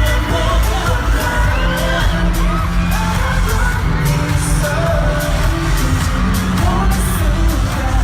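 Live pop song played loud through a concert sound system: a male singer's voice over a steady, driving beat.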